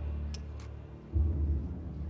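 Fireworks shells bursting overhead as a deep, rumbling boom, with a louder burst starting suddenly about a second in and two faint sharp cracks shortly before it.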